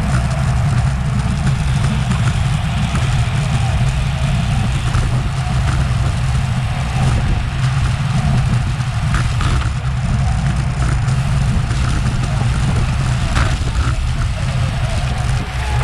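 Steady low wind rumble buffeting the microphone of a Garmin VIRB action camera on a racing bicycle at speed, with a few faint clicks.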